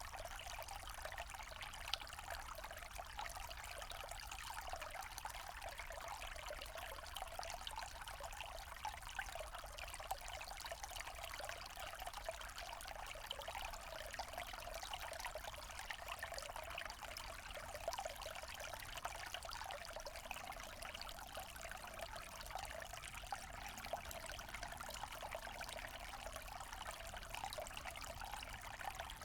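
Small forest stream trickling and splashing steadily over stones, a continuous burble with small splashes flickering through it.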